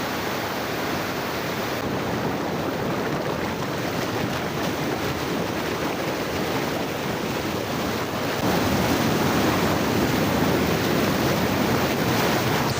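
Mountain river water rushing steadily, getting a little louder about eight seconds in.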